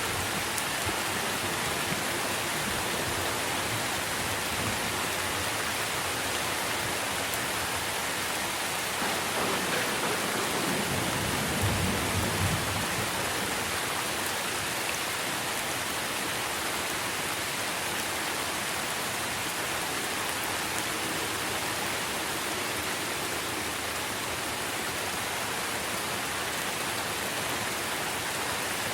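Steady heavy rain falling on tree leaves, an even hiss of drops. About eleven seconds in, a brief low rumble of thunder swells and fades.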